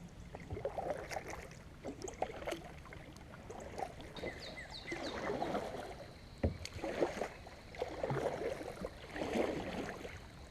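Kayak paddle strokes dipping and splashing in the water, a stroke roughly every second, with a sharp knock about six and a half seconds in.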